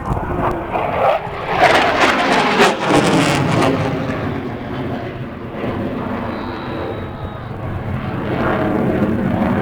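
Aircraft flying past at an airshow, its engine noise swelling to its loudest a couple of seconds in, easing, then building again near the end.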